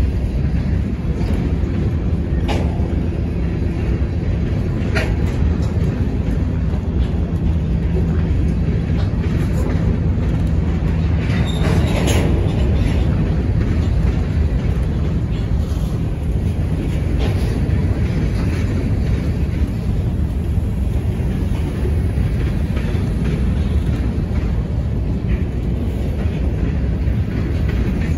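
Freight train of covered hopper cars rolling past: a steady rumble of steel wheels on rail, with a few brief sharp noises, the loudest about twelve seconds in.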